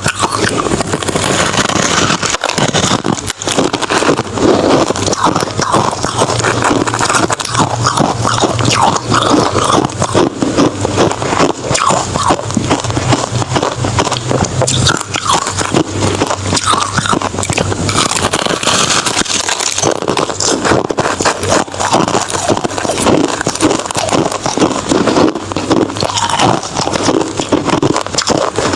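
Close-miked crunching of hard crushed ice and shaved ice being bitten and chewed, a dense run of crisp cracks and crackles.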